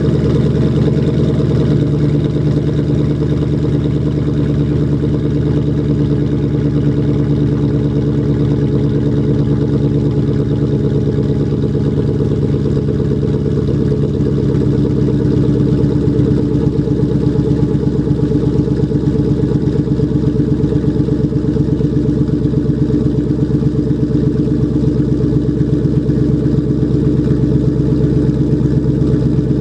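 Chevrolet LS1 5.7-litre V8 of a 2002 Camaro Z28 idling steadily through an SLP aftermarket exhaust, with a deep, even exhaust note and no revving.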